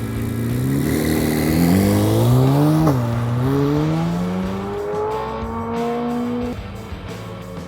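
2023 Corvette Z06's 5.5-litre flat-plane-crank V8 revving up: the pitch climbs, drops sharply about three seconds in, then climbs again more slowly before falling away near the end.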